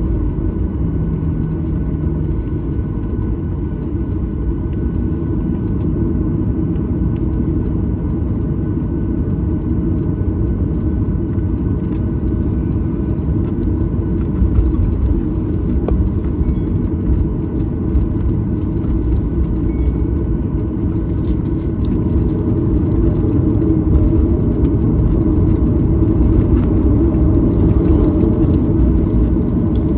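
Cabin noise of a Boeing 737-900ER taxiing: a steady low rumble from its CFM56-7B jet engines at idle, growing slightly louder near the end.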